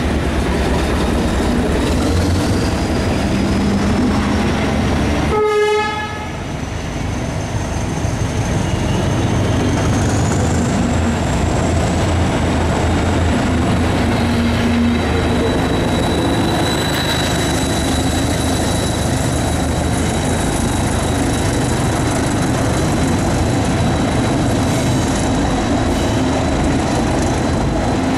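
NIR 80 Class diesel-electric multiple unit (the sandite train) running with a high whine that rises in pitch over the first ten seconds and then holds steady, and a short horn blast about five seconds in.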